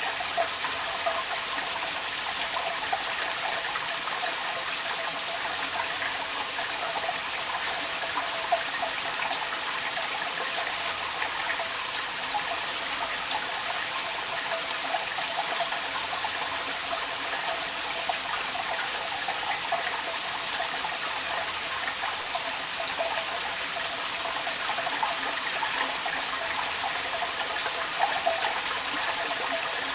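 Rain falling with water pouring steadily from a downpipe, a constant splashing hiss with small irregular drips and splashes on top.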